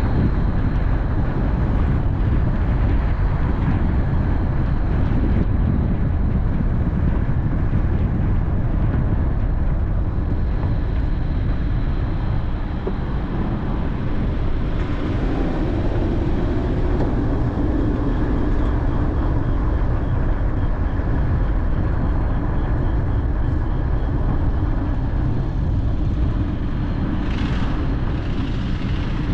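A car driving: a steady low rumble of road and engine noise, with a faint steady high-pitched whine over it.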